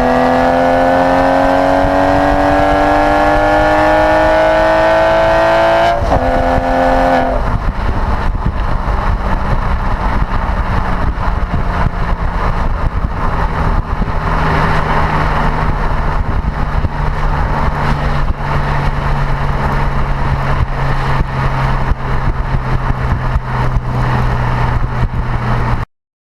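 Porsche Boxster engine through a performance sports exhaust, accelerating with the note rising steadily for about six seconds. Then a gear change, and a lower, rougher note that holds fairly steady until the sound cuts off abruptly near the end.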